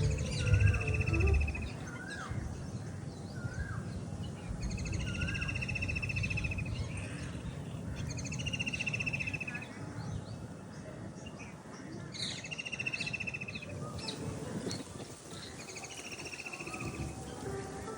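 Birds calling in a park: one bird repeats a fast trill, each about one and a half seconds long, roughly every four seconds, while short rising calls sound through the first few seconds. A steady low rumble runs underneath.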